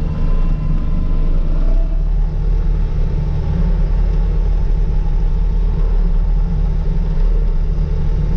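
Skid steer loader's diesel engine running steadily, a continuous low drone, while the machine works at the ice on the runway.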